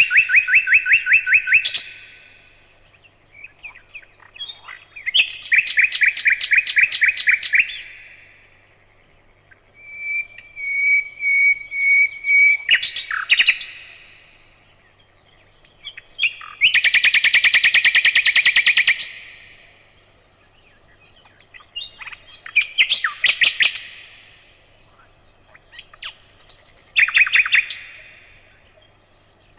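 Nightingale singing in separate phrases of a few seconds each, with short pauses between them. Most phrases are fast runs of repeated notes in rattling trills, and one, about ten seconds in, opens with a string of clear, evenly spaced whistled notes.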